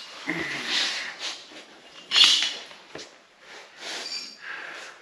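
A run of short scraping and rustling noises with a few sharp clicks, the loudest burst a little over two seconds in: hand work fitting clamps onto a sheet-metal patch panel that is being glued in with panel bond.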